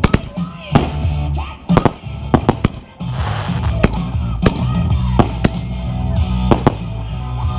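Fireworks going off in a display, with a sharp bang every half second to a second, over loud rock music with heavy bass that swells about three seconds in.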